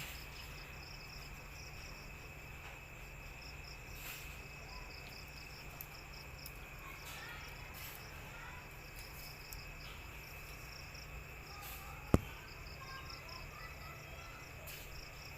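Crickets chirping in a steady run of rapid, high-pitched pulses. A single sharp click sounds about twelve seconds in.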